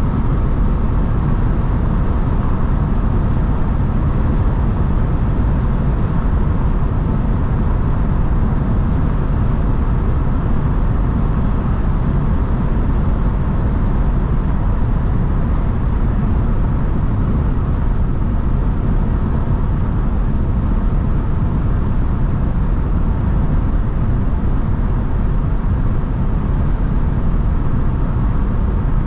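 Mercedes-AMG C43 driving at a steady speed: a constant low drone of engine and road noise, with the revs neither rising nor falling.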